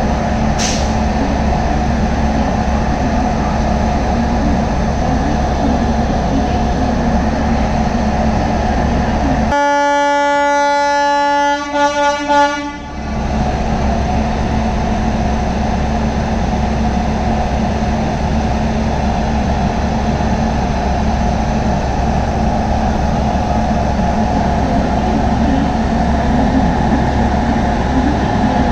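Steady hum and rumble of an electric locomotive and its train pulling slowly out. About ten seconds in, a train horn sounds for about two seconds, then stutters briefly before stopping.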